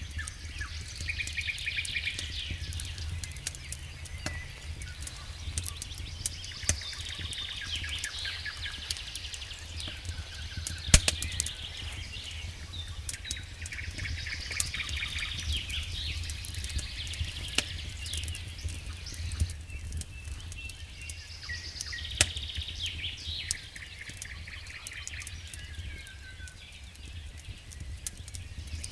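A songbird singing short repeated phrases every few seconds over the scattered pops and crackles of a wood campfire, with one sharp pop about eleven seconds in. A low steady rumble runs underneath.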